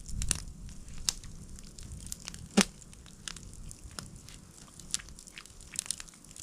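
Scattered crunches and clicks of someone eating and picking apart spit-grilled pike, with one sharper crack about two and a half seconds in.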